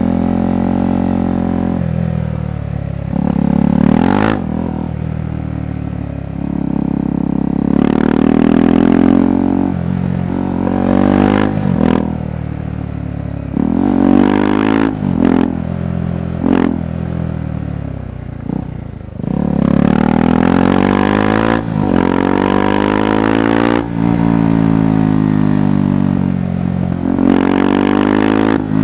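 KTM 390 Adventure's single-cylinder engine and exhaust under way, the pitch climbing and falling again and again as the throttle is opened and closed, with short breaks in the sound between pulls.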